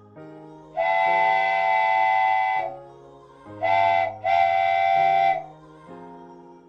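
Multi-tone chime steam whistle sounding three blasts, a long one, a short one and another long one, with background music underneath.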